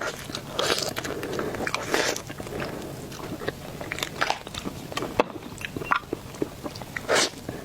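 Crunchy biting and chewing up close on the microphone as mantis shrimp is eaten, in irregular crackly bites.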